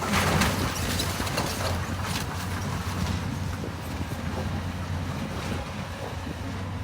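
Heavy demolition machine's engine running steadily with a low hum, under crunching and clattering of brick and debris being torn down, busiest in the first few seconds.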